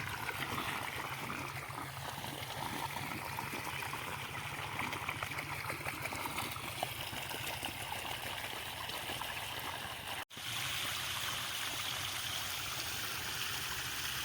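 Irrigation water flowing steadily from a field channel into a crop bed, with a brief dropout about ten seconds in.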